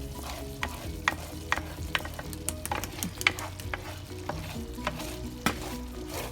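A utensil stirring a cream sauce in a pan, with irregular clicks and scrapes as it knocks against the pan, to keep the sauce from sticking. Quiet background music plays underneath.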